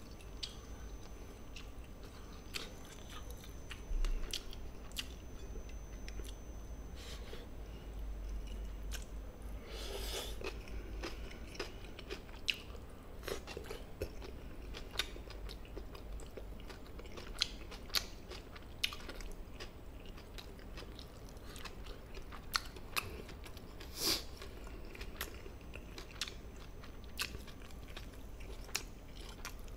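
Close-miked chewing and eating of chicken stir-fried in gochujang, with scattered sharp clicks and a few louder smacking noises now and then.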